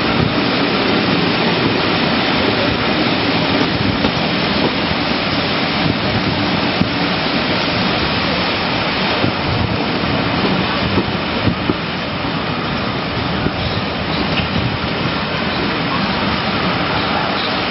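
Steady rushing noise of railway coaches running along the track, heard from an open carriage window with wind blowing across the microphone.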